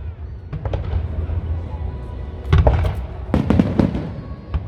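Aerial fireworks bursting: a few faint pops under a second in, a loud cluster of bangs about two and a half seconds in, then a rapid string of crackling reports, over a steady low rumble.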